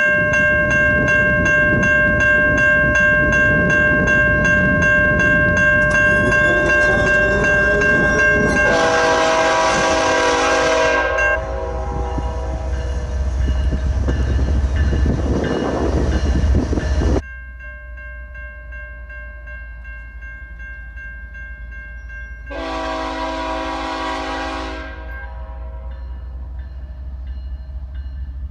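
A passing train rumbling over a steadily ringing grade-crossing bell, with a locomotive horn blast about a third of the way through. The rumble cuts off abruptly; the bell rings on, and a second horn blast sounds about three quarters of the way through.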